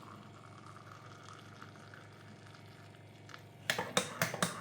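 Hot water poured faintly into a mug of hot chocolate powder and sugar. Near the end, a spoon starts stirring, with a quick run of sharp clinks against the mug.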